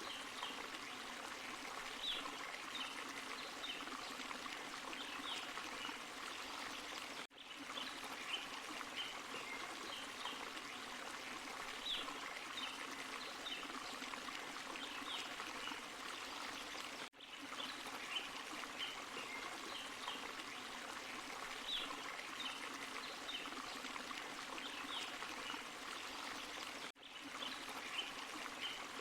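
Forest waterfall and stream, the water rushing and splashing steadily. The sound cuts out for a moment three times, about every ten seconds, where a short recording loops.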